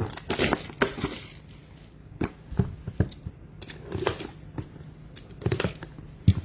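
Trading cards being handled and flipped through: irregular clicks and rubbing strokes as cards slide and tap against each other.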